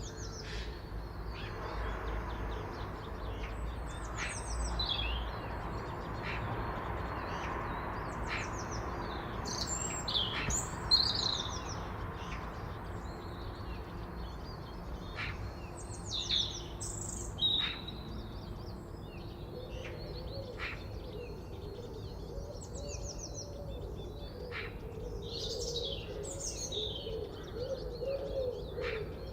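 Several forest songbirds singing and chirping, with quick trills and short high notes overlapping one another. A lower wavering call joins in about two-thirds of the way through, over a faint steady background hiss.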